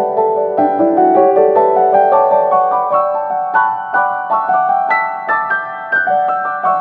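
Background piano music: a gentle melody of single notes and chords, each struck and left to ring.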